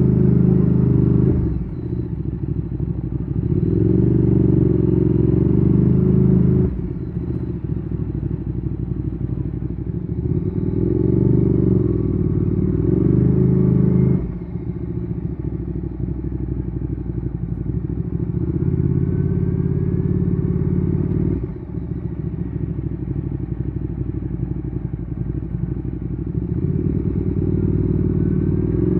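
Ducati Streetfighter 848's twin-cylinder engine through a Termignoni exhaust, ridden: it pulls loudly under throttle five times for a few seconds each, dropping sharply to a quieter off-throttle note in between.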